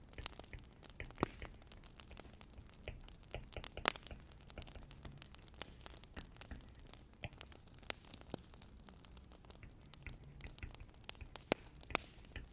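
Wood fire crackling: irregular sharp pops and snaps of burning firewood, a few louder than the rest, over a low steady rumble.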